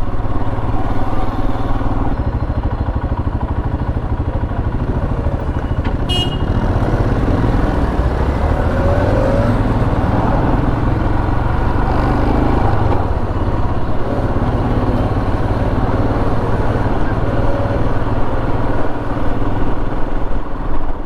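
Royal Enfield Himalayan's single-cylinder engine running steadily while riding, with a short sharp click about six seconds in.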